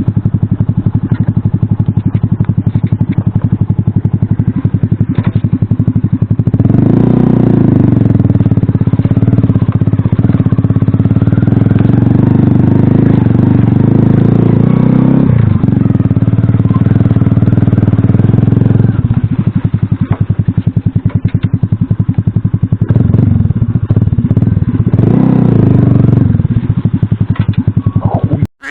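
Alpha moped's small single-cylinder four-stroke engine riding off-road: it runs at low revs, climbs in pitch about six seconds in and holds high revs, dips briefly in the middle, then eases off and revs up again near the end. Faint clatter of the bike over rough ground comes through.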